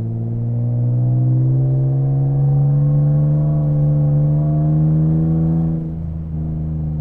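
Nissan Skyline ER34's straight-six engine pulling under steady acceleration, its pitch rising slowly, then dropping about six seconds in.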